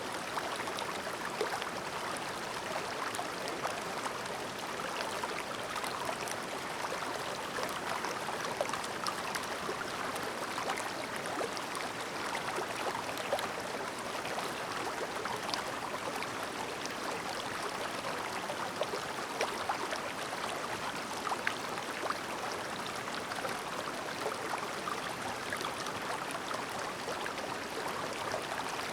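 Clear, shallow mountain stream babbling steadily: a constant wash of flowing water with many small splashes and gurgles.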